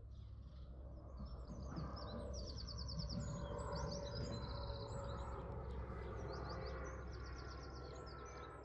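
Songbirds singing outdoors, with several bursts of rapid high trills, over a low steady rumble of background noise. The sound fades in at the start and out at the end.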